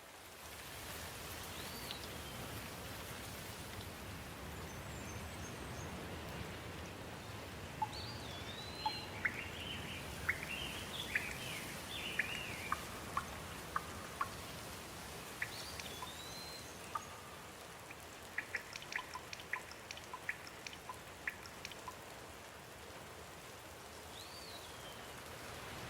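Steady rain falling, with a bird whistling a short rising-and-falling call every few seconds and a flurry of quick chirps and sharp ticks through the middle.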